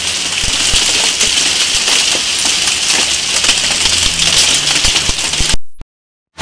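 Heavy hail pelting down, a dense clatter of countless small hailstone impacts over a steady hiss. The sound cuts off suddenly about half a second before the end.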